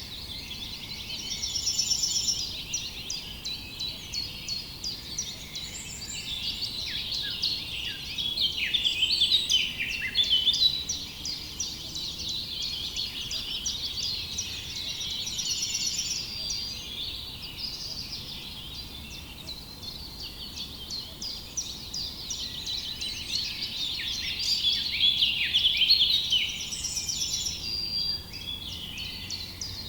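A chorus of many small songbirds chirping and singing at once, a dense overlapping stream of quick high chirps and short falling notes. One buzzy song phrase comes back about every twelve seconds.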